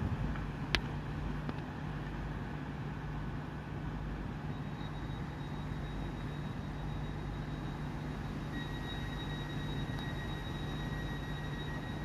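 Hitachi Class 800 bi-mode train running on its underfloor diesel engines, a steady low hum. A thin high whine joins about four seconds in, and a second, lower whine joins near the end. There is one sharp click about a second in.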